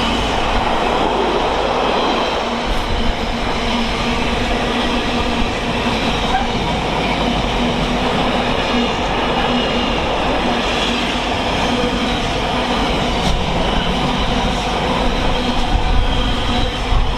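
Freightliner Class 66 diesel freight train passing on the main line, a steady loud rumble of wagon wheels on the rails with some clickety-clack and faint wheel squeal.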